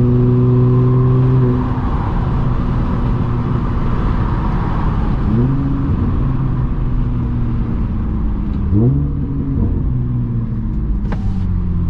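Audi S4 B8.5's supercharged 3.0-litre V6 running through an AWE exhaust on test pipes, heard from inside the car while driving. It holds a steady note, then the pitch climbs under acceleration about five seconds in and again about nine seconds in. A brief sharp click comes near the end.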